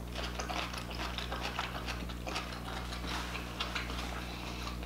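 Close-miked chewing of a mouthful of seafood-boil food: a stream of small, irregular wet mouth clicks and smacks, over a low steady hum.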